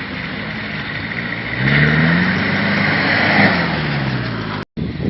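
Motocross bike engine running, then revving up about two seconds in; the pitch falls away again over the next couple of seconds. The sound cuts out briefly near the end.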